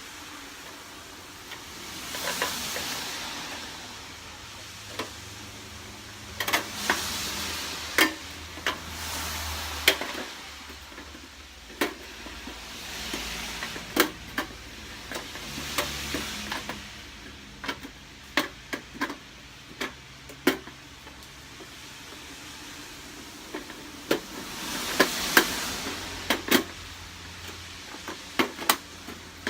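Thin sheet-metal stovepipe sections of a folding wood stove being handled and fitted together: many sharp metallic clicks and clacks as the pipes catch and snap into place, with several stretches of scraping as sheet metal slides against sheet metal.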